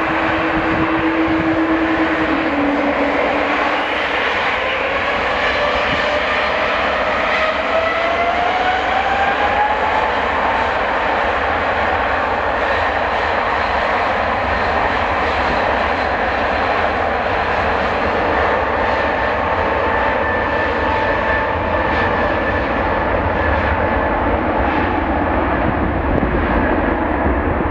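Airliner engines running loud and steady, with a whine that rises in pitch about a third of the way in and then holds level.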